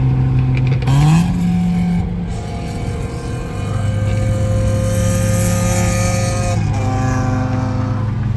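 Car engines on a road drive: an engine rises in pitch about a second in, then holds a steady drone.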